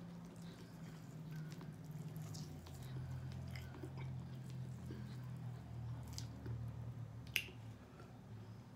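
Close-up chewing and biting of roasted chicken wings: wet mouth smacks and small clicks as meat is chewed and pulled off the bone, with one sharper click about seven seconds in, over a low steady hum.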